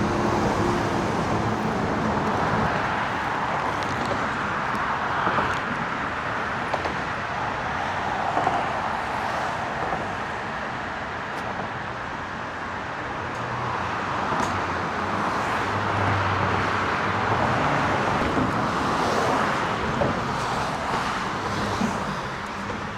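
Road traffic passing: a steady wash of tyre and engine noise that swells and fades as vehicles go by, with a few faint clicks.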